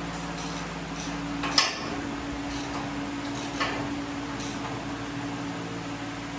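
Steady mechanical hum, likely shop equipment, with a few sharp clicks and clinks of parts being handled; the loudest click comes about a second and a half in, after which the hum weakens.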